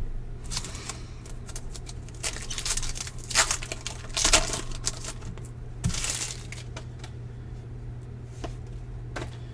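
Baseball trading cards and their packaging being handled, with irregular bursts of rustling and sliding over a steady low electrical hum.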